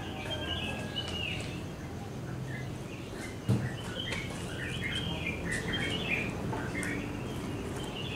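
Birds chirping outdoors, many short scattered calls over a steady low background hum, with a single sharp thump about three and a half seconds in.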